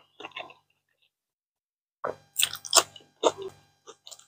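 A person eating: a few short chewing and mouth sounds at the start, then, about two seconds in, a louder run of sharp, crunchy chewing and lip-smacking lasting about a second and a half.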